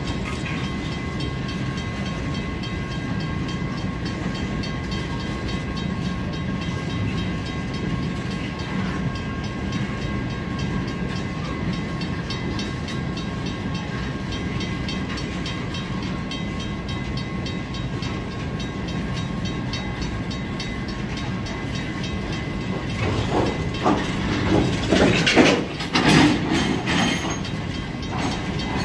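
Empty military flatcars of a freight train rolling past: a steady rumble of wheels on rail with a faint steady high whine above it. Near the end the cars get louder for a few seconds with a run of sharp clanks and squeals.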